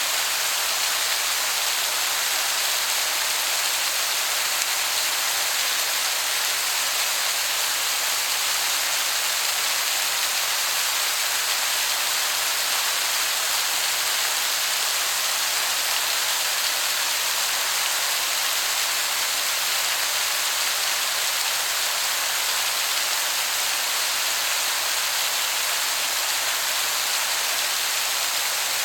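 Waterfall: a steady, even hiss of falling water with little low rumble, which sounds like heavy rain.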